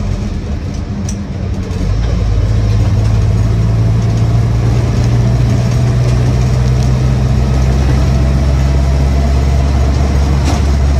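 Land Rover Series 1's 2-litre four-cylinder petrol engine pulling on the road, heard from inside the cab. It grows louder and drops in pitch about two seconds in, then runs steadily.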